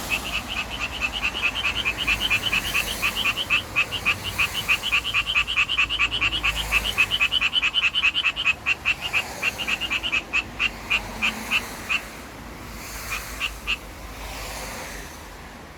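Male Japanese tree frog giving its mating call: a long, fast, even run of short, high croaks that stops about twelve seconds in, followed by a brief few more a second or so later.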